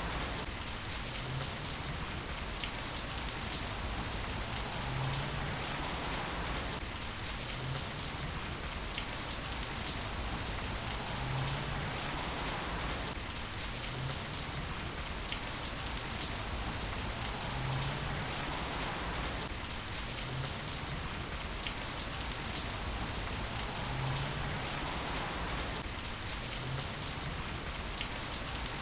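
Heavy rain falling steadily as an even hiss, with a few sharper drop ticks now and then; the whole pattern repeats about every six and a half seconds.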